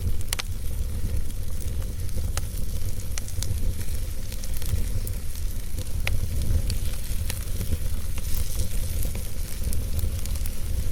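Wood fire burning in a fireplace: a steady low rumble and hiss with scattered sharp crackles and pops, a louder pop at the very start and another about six seconds in.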